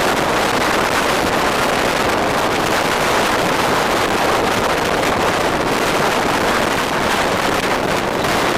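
Steady wind rushing over the microphone of a camera riding on a moving bike, mixed with road and traffic noise.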